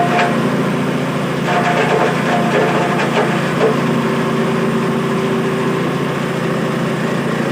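Cassava grinding machine running steadily: its motor drone with a scraping, grating noise from the grater, which grows louder for moments a couple of times.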